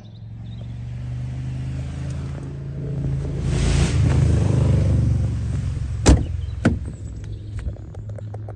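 Mercedes A200 car engine idling steadily. A rushing noise swells and fades in the middle, and there are two sharp clicks about six seconds in.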